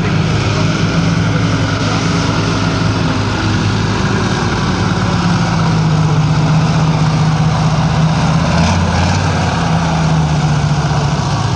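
Competition pulling tractor's large engine running loud and steady, its pitch drifting slightly.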